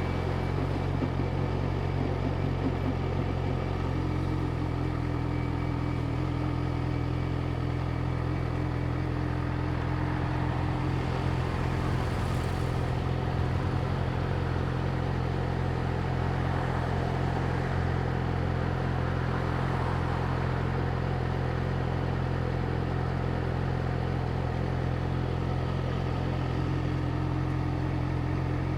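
Yamaha YZF-R6's inline-four engine idling steadily, its note holding one pitch without revving.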